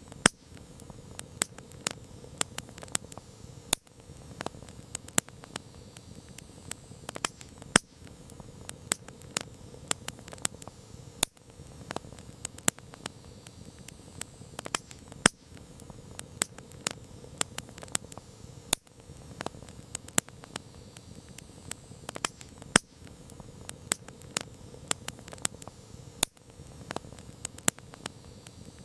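Campfire crackling: burning wood gives frequent sharp pops and snaps, a few a second and uneven in strength, over a steady low rush of flame.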